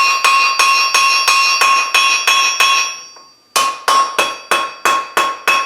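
Blacksmith's hammer striking hot mild steel bar stock on the anvil, about three blows a second, each with a bright metallic ring, to hammer a pucker out of the split taper. The hammering stops briefly about three seconds in, then picks up again at the same pace.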